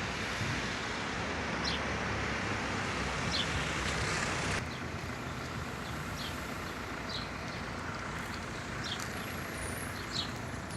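Steady rumble of a passing vehicle that eases off about halfway through, with short bird chirps over it.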